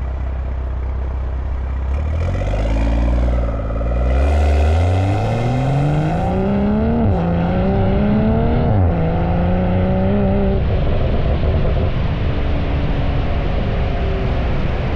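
BMW M340i's B58 3.0-litre turbocharged inline-six running through a catless downpipe and valved catback exhaust. The car accelerates hard, with the engine note climbing steadily from about two seconds in. It dips at a gear change about seven seconds in, climbs again, then drops sharply as the throttle is lifted near nine seconds, and settles to steady running.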